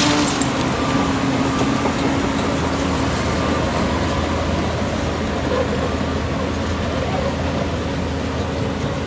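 Heavy diesel engine of earth-moving machinery running steadily.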